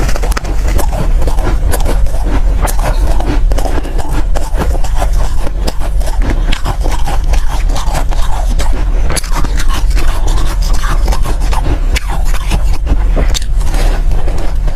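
Soft ice being bitten and chewed close to the microphone: dense, irregular crunching and crackling over a steady low rumble.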